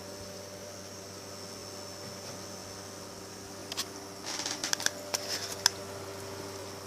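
Small electric cooling fan running steadily with a hum, as on a Peltier cooler's heatsink. About four seconds in, a cluster of sharp clicks and crackles lasts for roughly two seconds.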